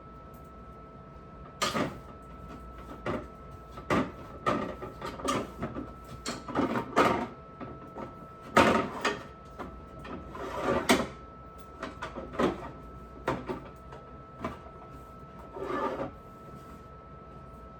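Refrigerator drawers and shelves being slid in and out and items being set down: a string of irregular knocks, rattles and short scrapes, over a faint steady hum.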